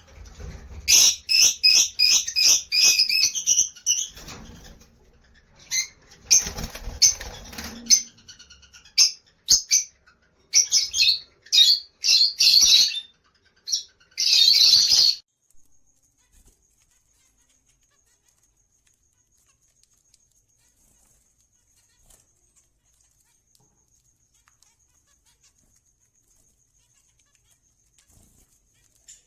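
Pet parakeets giving loud, sharp, repeated calls mixed with wing flapping for about fifteen seconds, then stopping abruptly. Afterwards only a faint, steady, high-pitched whine remains.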